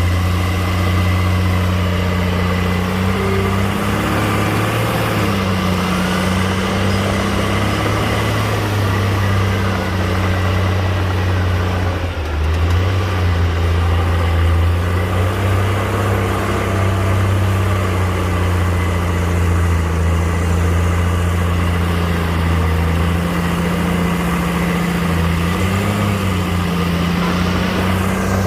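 Heavy earthmoving machine's diesel engine running steadily, a low drone that wavers slightly in pitch, with a brief dip about twelve seconds in.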